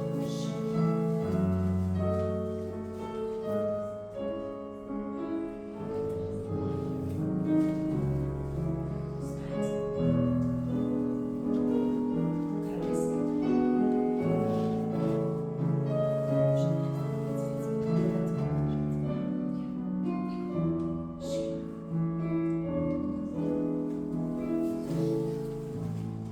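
Classical piano music accompanying a ballet class exercise, with a steady flow of chords and melody.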